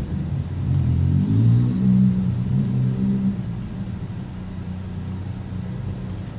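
Vehicle engine and road noise heard from inside a car cabin in slow city traffic. An engine note climbs and grows louder over the first two seconds as a vehicle accelerates, then settles to a steadier low running sound.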